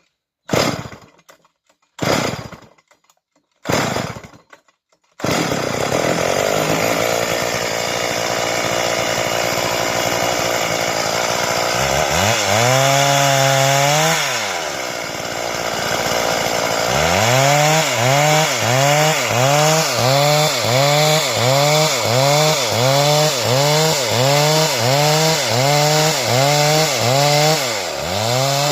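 Stihl chainsaw starting: three short bursts, then the engine catches about five seconds in and runs. Its note then rises and falls, once and then over and over in a steady rhythm of a little more than once a second.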